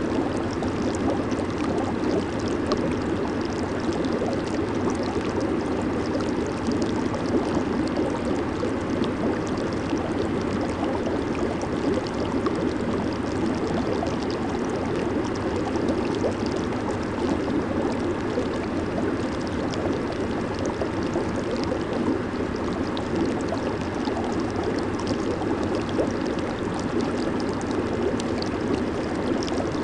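Hot tub jets churning the water: a steady bubbling and gurgling rush with a fine fizzing crackle on top, unchanging throughout.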